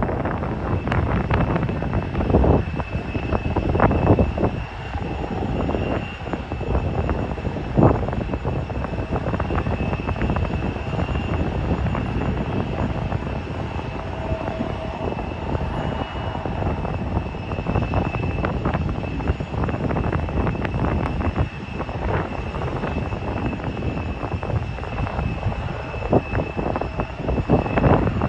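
Airliner engines running at an airport, a steady roar with a faint high whine, while gusts of wind buffet the microphone.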